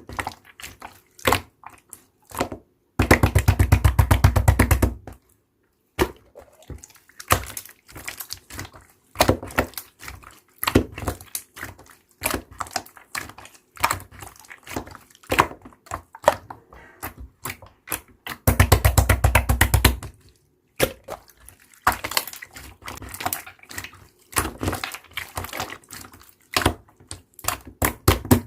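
Slime being pressed and stretched by hand: a steady run of separate sticky clicks and pops, with two stretches of fast, loud crackling clicks about two seconds long, one a few seconds in and one past the middle.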